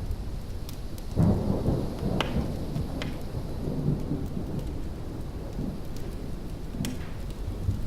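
Distant thunder rolling in a little over a second in and dying away slowly, over a steady rain-like rumble of pink and brown noise. A few sharp fire crackles and pops fall scattered through it.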